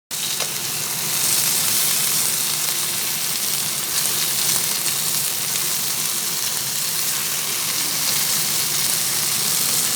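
Food frying in a pan: a steady, even sizzle.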